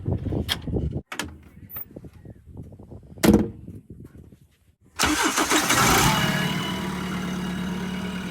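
Heavy vehicle's diesel engine running, with abrupt cuts in the sound. A single sharp knock comes about three seconds in. About five seconds in, an engine comes in loud, like an engine starting, and settles into a steady drone.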